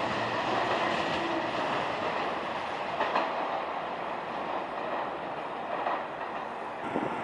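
Train running on rails, with the clickety-clack of wheels over rail joints and a steady rumble that slowly eases off; there is a single knock about three seconds in.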